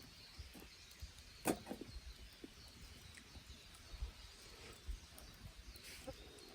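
Faint, sporadic crackling of a wood campfire, with one sharper pop about a second and a half in.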